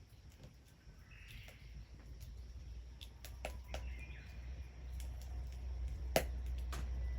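Wood fire crackling, with scattered sharp pops and one louder snap about six seconds in, over a low rumble that grows louder.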